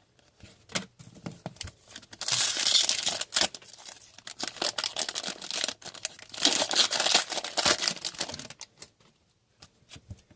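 Hockey card packs being handled: foil pack wrappers crinkling and tearing in two longer stretches, about two seconds in and about six seconds in, with small clicks and taps of cards in between.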